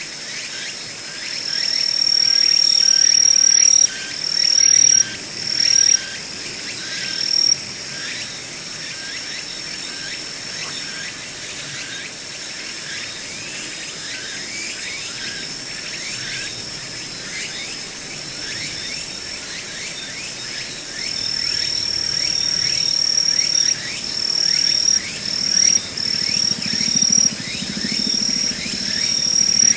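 Several insects, crickets among them, singing: one high continuous trill that grows louder in stretches and breaks off briefly several times, over a faint background of many repeated chirps.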